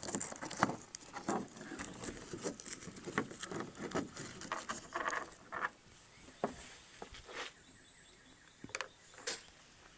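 Irregular light taps, clicks and rustles of objects being handled, busiest in the first half and thinning out about halfway through.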